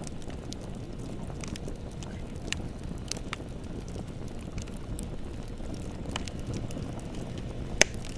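Bonfire burning with a steady low rumble and scattered sharp crackles, one louder pop near the end.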